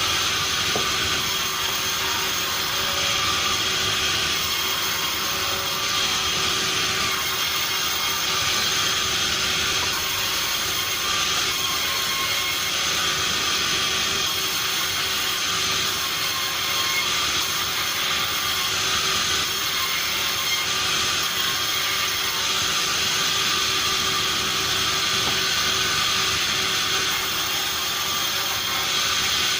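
Sawmill saw running steadily, a continuous even noise with a faint steady tone held throughout.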